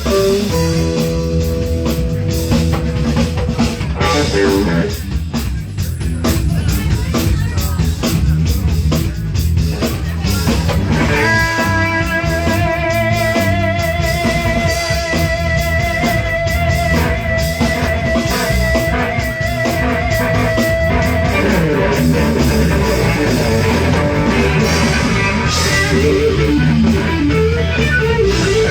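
Live band playing an instrumental break: an electric guitar lead over bass and drums. A little over a third of the way in, the guitar holds one long note with vibrato for about ten seconds, then goes back to shorter phrases.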